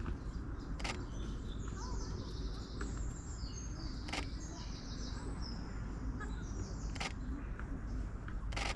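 Songbird singing rapid, high trilling phrases in the first half or so, over a steady low rumble. Four sharp clicks come at roughly two- to three-second intervals.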